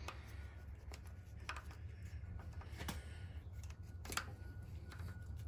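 A few light clicks and taps of small handling, about one a second, over a steady low hum.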